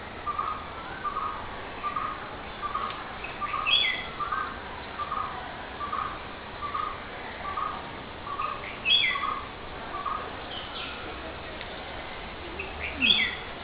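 Bird calls: a steady series of short notes repeating about once every 0.7 seconds, which stops about ten seconds in, with three louder, higher calls that slide downward in pitch, about five seconds apart.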